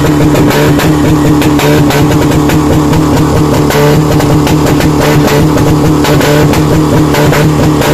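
Honda Civic's VTEC four-cylinder engine held at high revs through a loud aftermarket exhaust, running at a steady, unchanging pitch.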